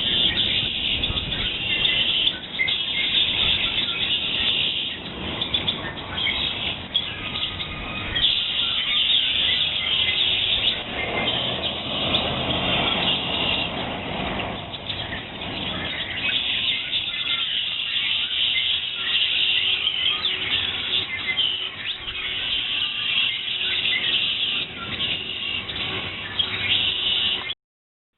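Many songbirds chirping and singing at once, their calls overlapping into a dense continuous chorus; it cuts off suddenly near the end.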